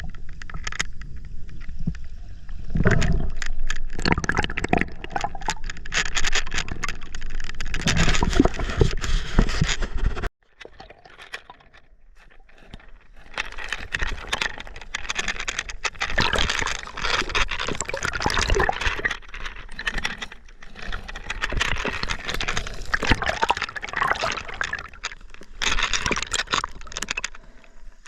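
River water splashing and gurgling close to the camera, with many small knocks and clicks. About a third of the way through the sound cuts off abruptly and gives way to a quieter, hissier bubbling that grows louder again.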